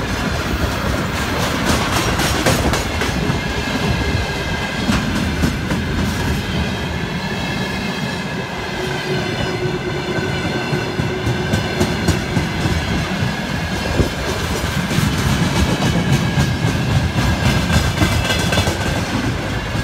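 Freight train wagons (tank cars and flat wagons) rolling past close by: a steady rumble with wheels clicking over rail joints, and a high steady ringing tone over it through the middle.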